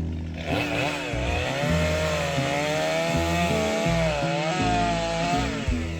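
Chainsaw running at high revs and cutting into wood, its pitch sagging and rising as the chain bites. It starts about half a second in and drops away near the end. A background music bed with shifting low notes runs underneath.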